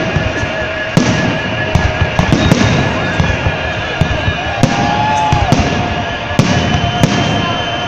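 Festive fireworks salute: shells bursting in a string of sharp bangs, about one or two a second, over a dense rumble, with steady held tones running underneath.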